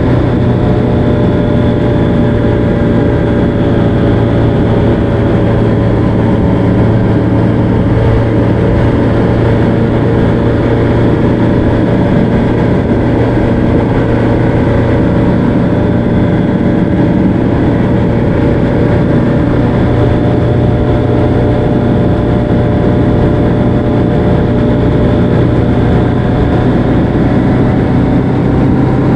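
Motorcycle engine running steadily at cruising speed, its pitch holding nearly constant under a continuous rush of noise.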